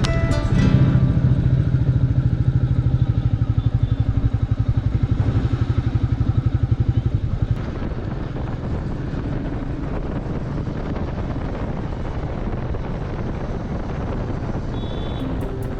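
Royal Enfield Meteor 350's single-cylinder engine running with an even, pulsing exhaust beat. About seven and a half seconds in, the beat drops away to a steadier rushing noise.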